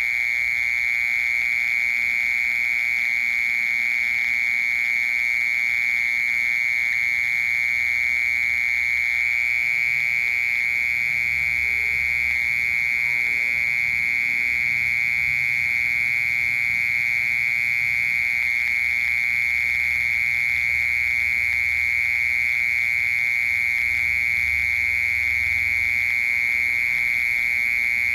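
Cricket song: one continuous, steady high trill with no breaks.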